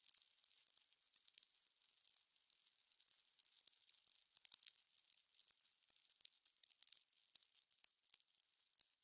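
Fire crackling: a dense, irregular run of small pops and snaps, thin and high with no low rumble, with a cluster of louder pops about four to five seconds in.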